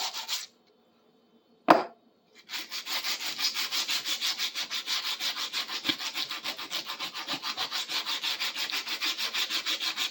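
Hand sanding of a rusty metal part with worn sandpaper: rapid back-and-forth rubbing strokes, about three a second. The strokes pause briefly near the start, with one sharp knock in the pause, then carry on steadily.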